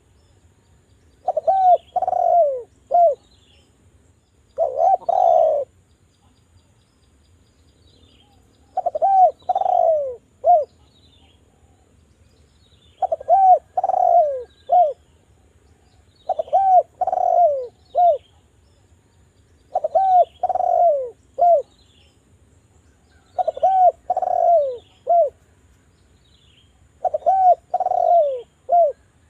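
Spotted dove (derkuku) cooing: a phrase of three or four low, down-curving coos, repeated about every three and a half seconds, eight times in all. Faint high chirps of small birds sound between the phrases.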